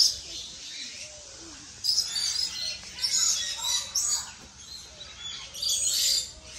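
Aviary birds chirping and calling in a few shrill bursts, about two seconds in, again near the middle and once more near the end, over a steady low background.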